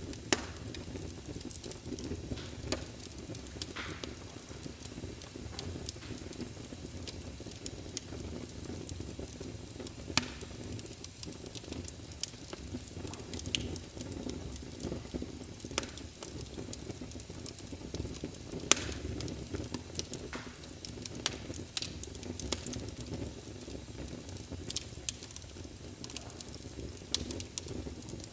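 Fireplace fire crackling: irregular sharp pops and snaps over a steady low rush of burning.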